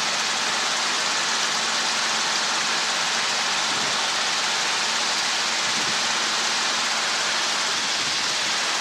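Steady, even hiss on a helicopter's headset audio feed between radio transmissions, with a faint low hum under it.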